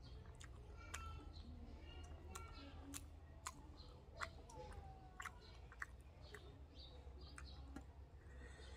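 Faint close-up chewing and lip-smacking of a mouthful of roti and dal eaten by hand, heard as a scattered string of short wet clicks, over a steady low hum.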